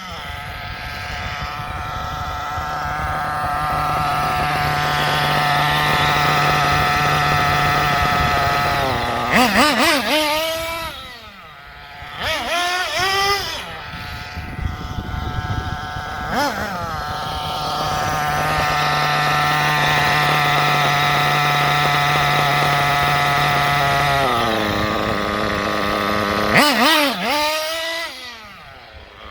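Small high-revving .21 nitro engine of a Kyosho MP10 RC buggy being tuned from its break-in setting. It holds a steady high whine for several seconds, then drops toward idle with quick throttle blips whose pitch sweeps up and down. This happens twice, and near the end it falls to idle and is blipped again.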